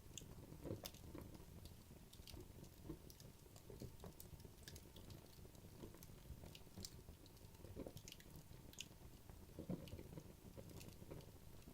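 Wood logs burning in a fireplace: irregular, faint crackles and small pops over the low, steady rush of the fire.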